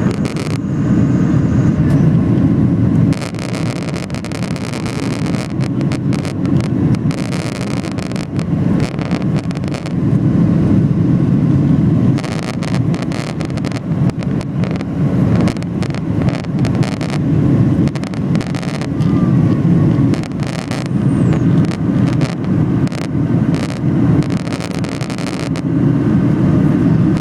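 Cabin noise inside a Ryanair Boeing 737-800 in flight: a steady low roar of the CFM56 turbofan engines and airflow, swelling and easing every few seconds.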